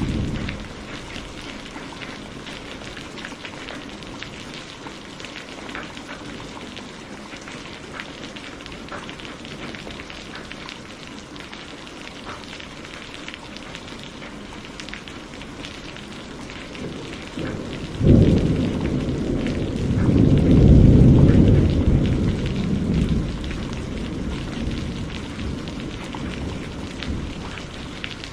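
Steady rain falling with scattered drops ticking, and thunder: a low rumble fades away at the start, then about two-thirds of the way through a sudden crack breaks into a loud rolling rumble that swells for a few seconds and dies away.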